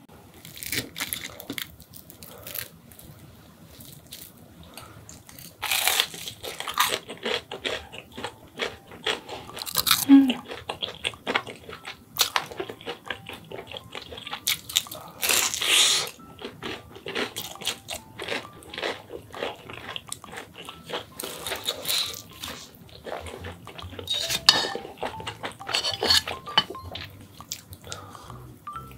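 Close-miked biting, crunching and chewing of a crisp fried breaded pork cutlet, with a few louder crunches among many small crackles of the crust.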